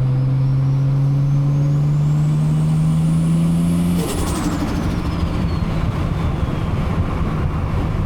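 Toyota Supra MK4's big-turbo 2JZ-GTE straight-six pulling under boost, its engine note and a high turbo whine rising together. About four seconds in the throttle comes off: the engine note breaks up and the turbo whine winds down.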